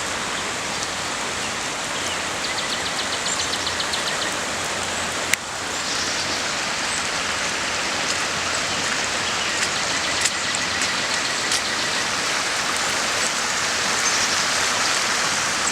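Rain-swollen creek rushing steadily in high water, the waterfall drowned beneath the flow. A single sharp click about five seconds in.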